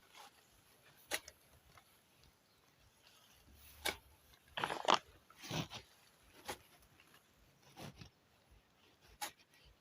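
Irregular crunching impacts on dry ground, about seven, spaced a second or more apart, with a brief cluster near the middle.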